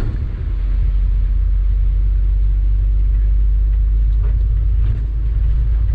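Sany 6x4 dump truck driving along the road, heard from inside the cab: a steady, loud low rumble of the diesel engine and the road.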